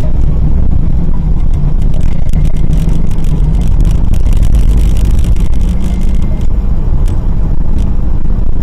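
Steady low rumble of a moving car, engine and road noise inside the cabin picked up by the dashcam microphone, with a few faint ticks.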